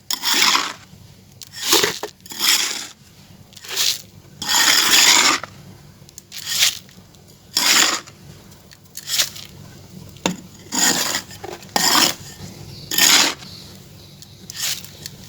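Gritty scraping and crunching of dry clay, in a string of short strokes roughly one a second, with a longer rasping stroke about five seconds in.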